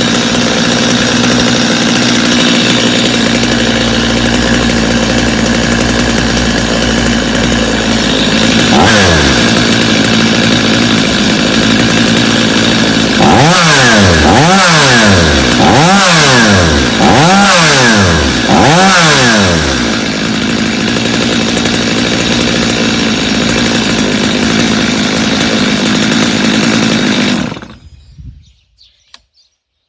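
Stihl two-stroke chainsaw engine idling, revved once about nine seconds in, then blipped up and down five times in quick succession before settling back to idle. It is shut off suddenly near the end.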